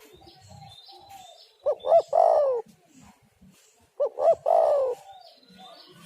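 Spotted dove cooing its three-part call twice, two short notes and then a longer drawn-out note, with small birds chirping faintly behind.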